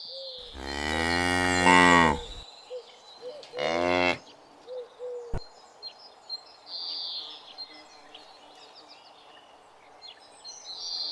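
Cow mooing twice: one long moo about half a second in and a shorter one around four seconds. Quieter background with a few faint high chirps follows.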